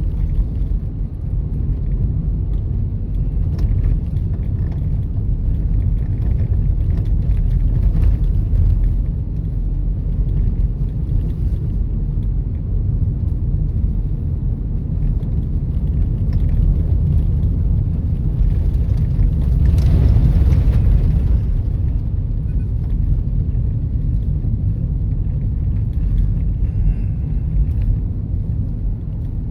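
Steady low road and tyre rumble of a car being driven, heard from inside the cabin. The rumble swells briefly about twenty seconds in.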